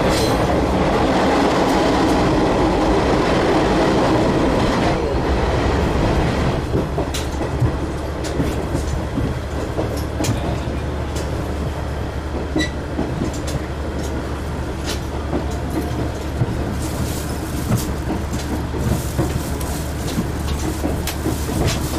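Cabin sound of a diesel railcar under way: a steady low engine drone under the running rumble. The rumble is louder for the first six seconds, then eases, and scattered clicks from the wheels and rail joints follow.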